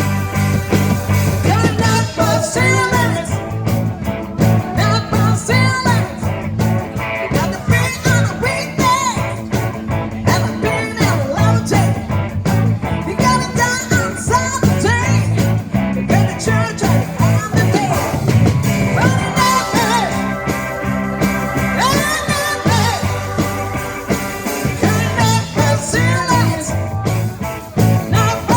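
A rock band playing live: a steady, repeating bass line under a lead melody that bends in pitch.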